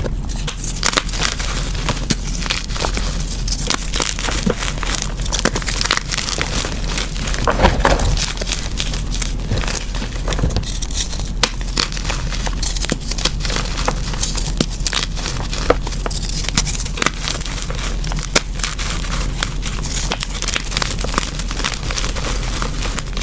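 Reformed, dyed gym chalk being crushed: a dense, continuous run of crunchy crackles and crumbles, with a louder crunch about eight seconds in.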